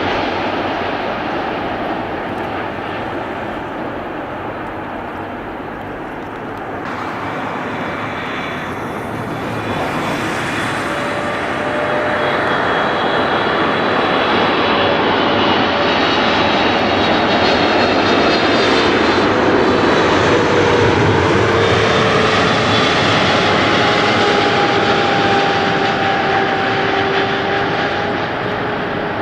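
Airliner engines as the aircraft passes: a continuous rushing noise that swells to its loudest about two-thirds of the way through, with whining tones that slide down in pitch as it goes by.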